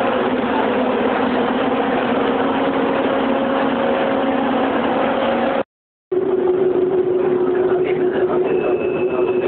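Inside a passenger train: steady running noise with a constant hum. The sound drops out completely for about half a second about six seconds in, then returns as a steady hum at a different pitch, with a thin high whine joining near the end.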